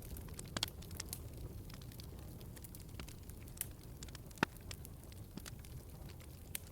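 Fireplace fire crackling, with irregular sharp pops over a low steady rumble of the flames; one louder pop about two-thirds of the way through.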